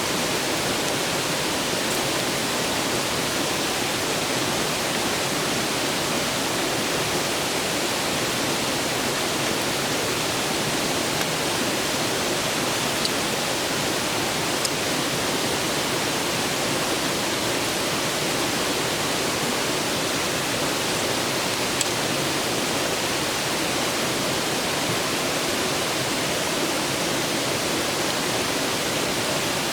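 A clear river rushing steadily. A few faint crackles from a wood campfire come through now and then.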